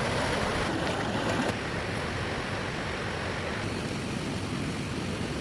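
Heavy rain falling, a steady rushing hiss.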